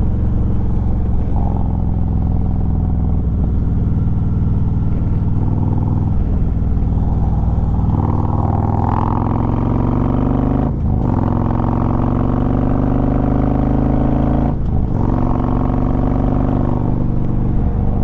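Harley-Davidson Road Glide V-twin engine running under load at speed, its pitch climbing as it accelerates, with two brief drops about 11 and 15 seconds in where it shifts up a gear.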